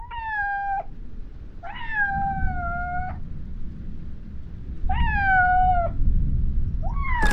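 A domestic cat meowing loudly four times, each meow about a second long and falling slightly in pitch, over steady rain. There are a few sharp clicks right at the end.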